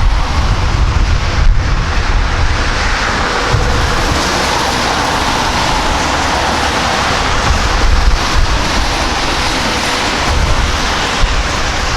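Jet airliner engine noise that swells in the middle and then eases, with gusty wind rumbling on the microphone throughout.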